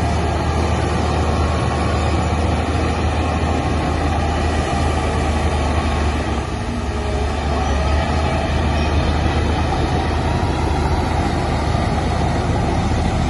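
Heavy earthmoving machine's diesel engine running steadily, a deep low drone with a dense rumble above it. It eases briefly about six and a half seconds in.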